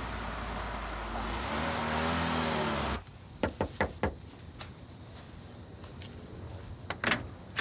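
Car engine running and revving, its pitch rising and falling, then cutting off abruptly about three seconds in. After that come a few sharp knocks on a door, with a couple more near the end.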